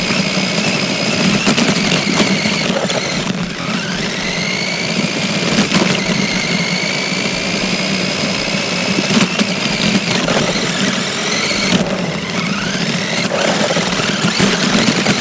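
Battery-powered RC car's electric motor whining as it drives, the high whine rising in pitch each time it speeds up, then cutting off and spooling up again twice, over the rumble and rattle of the car driving over dirt.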